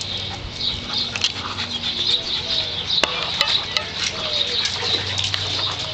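Background birds chirping steadily, with scattered light clicks, a few short gliding tones and a low steady hum underneath.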